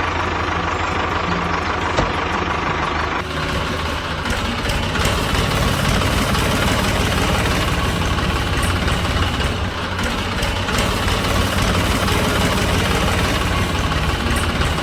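Diesel tractor engine idling with a steady knocking chug. The sound changes abruptly about three seconds in and then runs on evenly.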